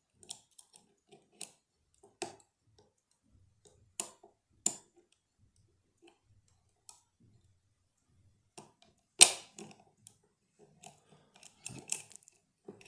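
Metal picking tools working inside a lever lock: scattered light clicks and ticks, with one sharp, louder click about nine seconds in and a busier run of clicks near the end.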